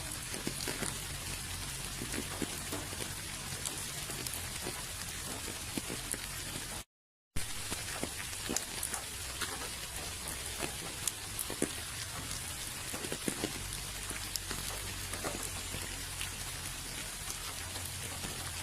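Steady rain falling, with many individual drops ticking on a surface. About seven seconds in, the sound cuts out completely for half a second, then resumes.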